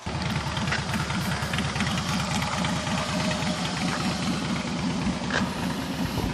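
Car engine idling close by, a steady pulsing low rumble.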